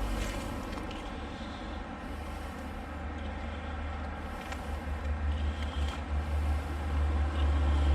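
Steady rushing of a swollen, fast-flowing river with a low rumble of wind on the microphone, growing louder over the last few seconds.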